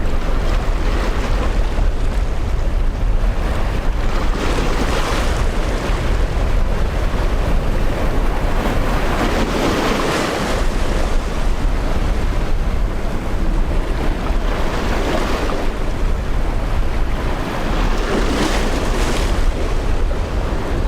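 Strong wind buffeting the microphone over rough surf, with waves washing and breaking in swells a few seconds apart.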